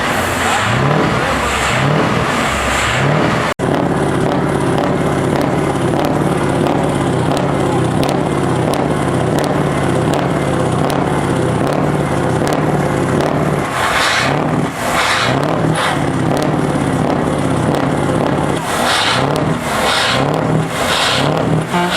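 Heavy truck diesel engines with open straight-through exhausts being revved. Quick repeated revs at first, then a sudden cut to a steady, deep engine note, and repeated rising revs again in the second half.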